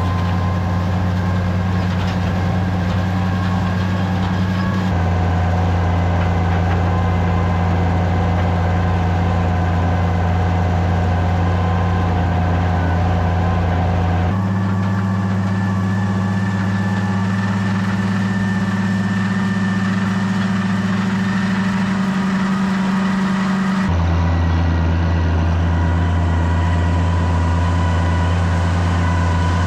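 Tractor engine running steadily, a loud, constant low drone whose tone changes abruptly three times, at about 5, 14 and 24 seconds in.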